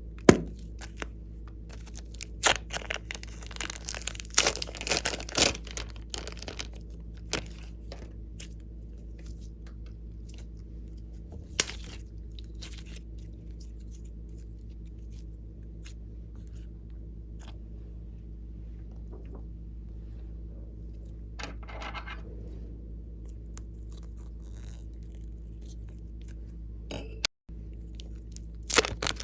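Slime being worked by hand, giving sticky crackles and crunchy pops in clusters, heaviest early on, then sparser, over a steady low hum.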